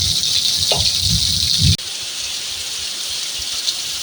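Heavy rain falling steadily, a dense hiss. A low rumble underneath stops suddenly about two seconds in, leaving the rain alone.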